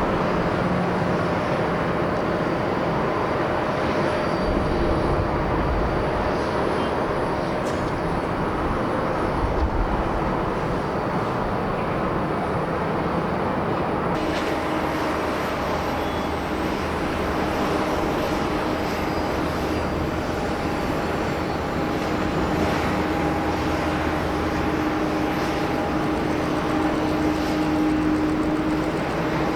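Jet airliner engines on landing approach: a steady rush of jet noise with engine whine over it, the whine tones changing about halfway through.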